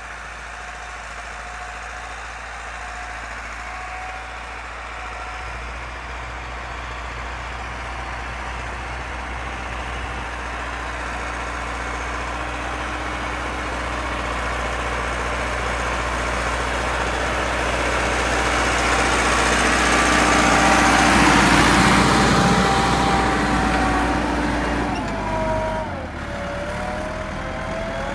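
IMT 577 tractor engine running, growing steadily louder to a peak about three quarters of the way through, then dropping off, its pitch falling near the end.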